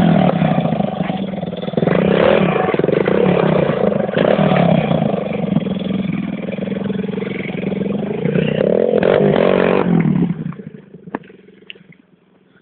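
Pit bike engine running and being revved, its pitch swelling up and down, with a longer rise about eight seconds in, then the engine sound dies away about ten seconds in.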